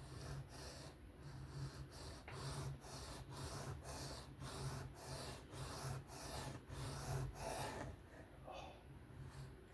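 Knife blade being stroked back and forth across a whetstone in freehand sharpening, an even rasping rhythm of about two to three strokes a second that stops about eight seconds in. A steady low hum runs underneath.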